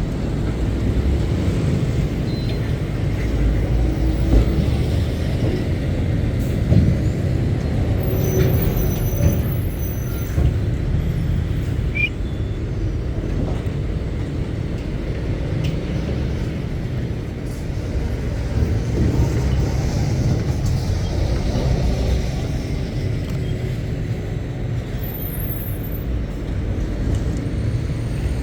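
Heavy diesel lorries running and passing, a continuous low rumble that swells and eases, with a few brief high hisses.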